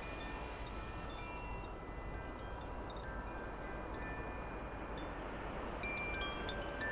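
Wind chimes ringing, many overlapping sustained tones fading and being struck again, over a steady outdoor hiss.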